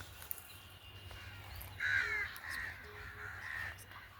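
A bird giving a run of short, harsh, caw-like calls, starting about two seconds in and repeating roughly every half second.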